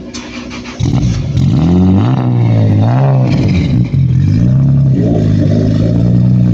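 Car engine revving: about a second in it gets louder, then the pitch climbs and falls a few times before settling into a steadier run.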